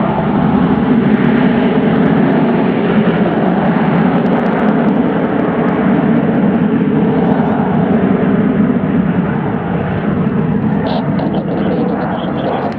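The four Rolls-Royce Olympus turbojets of Avro Vulcan XH558 running at high power in a steady, loud rush of jet noise, easing slightly near the end.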